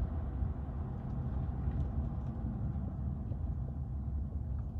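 A steady low rumbling noise.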